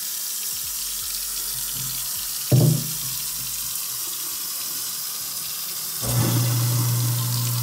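Kitchen faucet running water into the sink, with a brief thump about two and a half seconds in. About six seconds in, a garbage disposal switches on with a steady motor hum, the unclogged disposal running normally.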